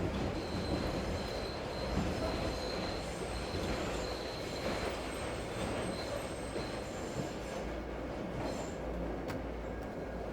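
A train rolling past with a thin, high wheel squeal that holds for the first half or so and then fades, over a steady rushing background noise.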